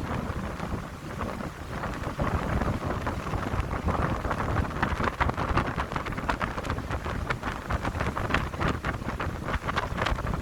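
Wind blowing through a pine grove and buffeting the microphone with a low rumble, with many short crackling ticks from about four seconds in.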